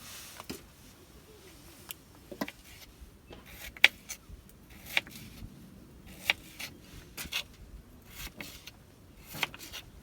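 Irregular light clicks and knocks of small hard objects being handled, about one a second, the sharpest about four seconds in.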